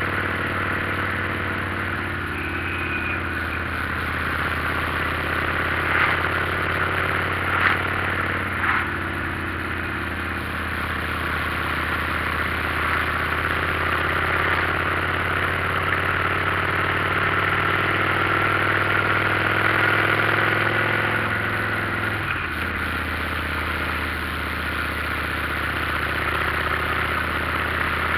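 Motorcycle engine running steadily, with a few short clicks about a quarter of the way through and a sudden change in engine note a little past three-quarters through.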